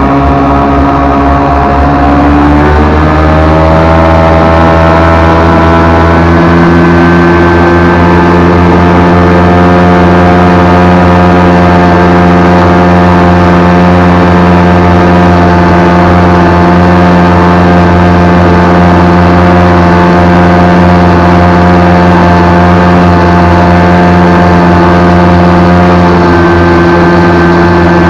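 Vikhr two-stroke outboard motor driving a water-jet unit, running under way. Its pitch climbs over the first few seconds as it speeds up, then holds steady at high revs.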